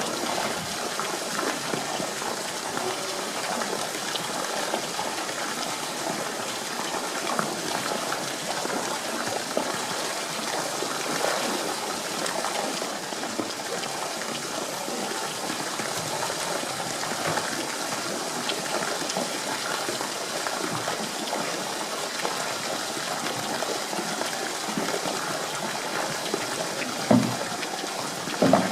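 Steady rush of running water, with two short low thumps near the end.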